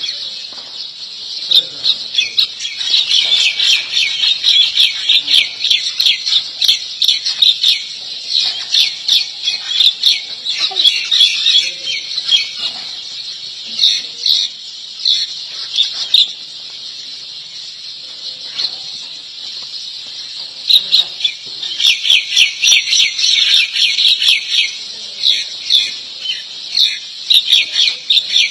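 Small birds chirping rapidly in dense runs of short, high-pitched chirps, which die down for a few seconds in the middle and then start up again.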